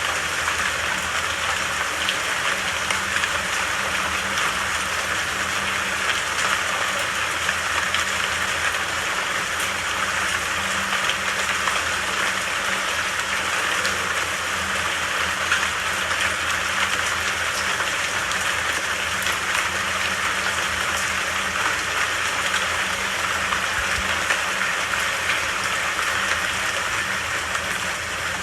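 Steady rain falling, a dense even hiss of many drops pattering on leaves and surfaces, at a constant level.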